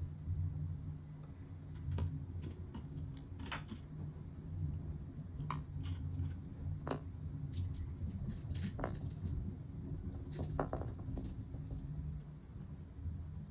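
Scattered light clicks and taps of hand work with small parts, about a dozen spread irregularly, over a steady low hum.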